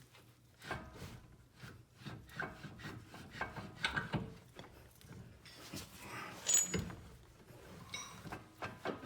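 Irregular clunks, knocks and scrapes of metal parts being handled and worked together while fitting a car's front drive axle, with a sharper metallic clink about six and a half seconds in.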